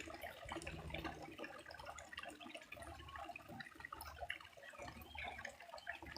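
Faint trickling and dripping water, a scatter of small irregular drops over a low rumble.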